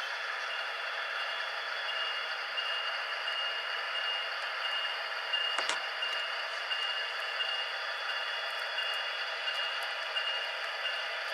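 HO scale model locomotives running on the layout: a steady whirring hiss with a thin, wavering high whine that comes and goes, and a single click about six seconds in.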